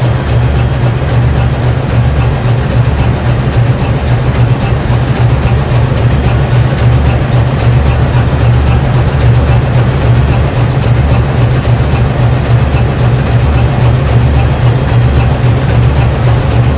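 Ship's main diesel engine, rated at 16,563 horsepower, running steadily and loudly: a deep, even drone with a fast, regular ticking over it.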